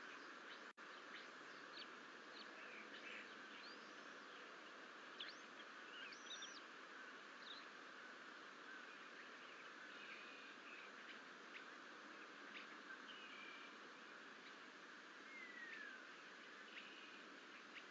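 Faint outdoor ambience at an eagle nest: scattered short bird chirps and calls over a steady background hiss, with a momentary cut-out under a second in.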